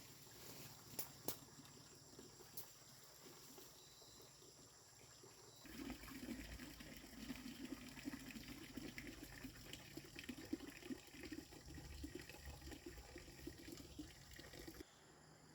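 Water running and splashing, faint and uneven. It starts about six seconds in and cuts off suddenly near the end, after a few light clicks.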